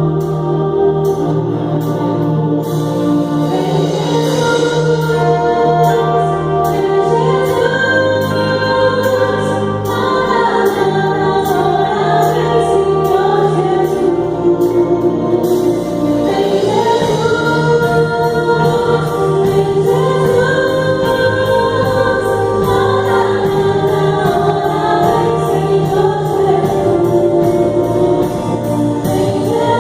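Gospel worship song: a group of voices singing over a keyboard accompaniment with a steady beat.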